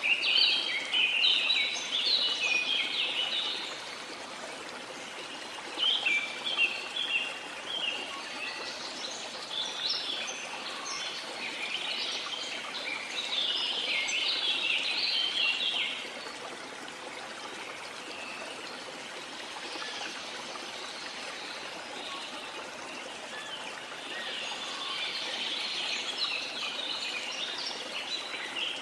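Jungle birds chirping in quick, busy spells over the steady rush of a waterfall, with a lull in the birdsong around the middle.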